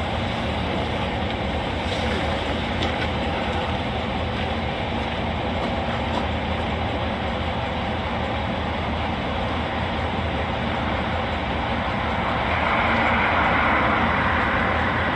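Steady in-cabin noise of a parked police squad car with its engine idling, with a low hum under it. It grows a little louder near the end.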